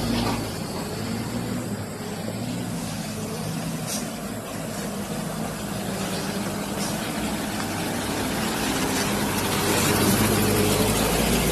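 Truck engine running at low speed, a steady low drone that grows louder about nine seconds in.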